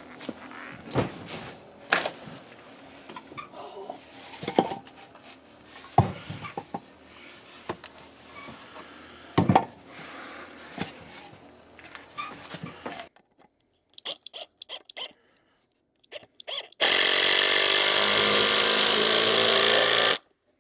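Scattered knocks and clicks as parts are handled and positioned, then a power drill runs steadily for about three seconds near the end, driving a screw, and stops abruptly.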